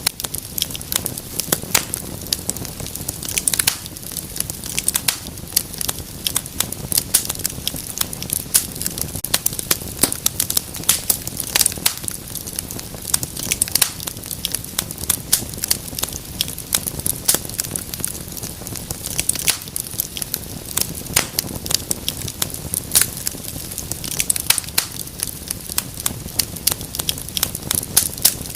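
Wood fire crackling in a fireplace: constant irregular pops and snaps over a soft low rush of flames.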